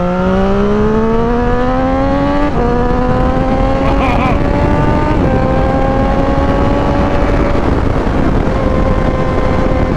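Triumph Street Triple 765 RS's three-cylinder engine through a full Spark exhaust with a Konix Evo end can and the catalytic converter removed, pulling through the gears: the revs climb and drop at upshifts about two and a half and five seconds in, and again near seven and a half seconds, then run steadier. Wind rush sits underneath.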